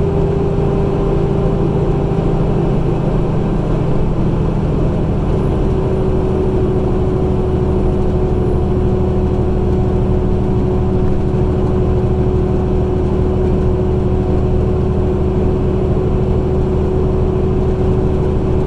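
Heavy truck's diesel engine running steadily as it drives, a constant drone with a steady hum on top.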